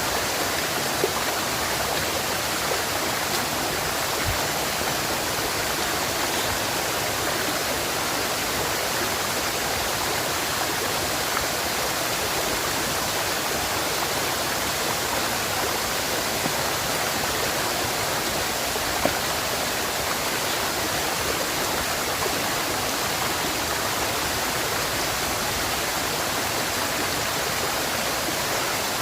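River water rushing and running steadily, an even, unbroken wash of sound, with a few faint isolated ticks.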